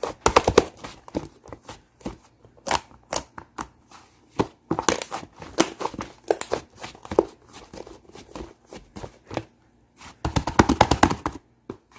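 Hands squeezing and stretching shaving-foam slime, giving irregular bursts of crackling, popping clicks, with a dense run of crackling near the end.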